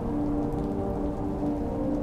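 Steady rain over a muffled, reverb-soaked synth song, its notes held and blurred into one another.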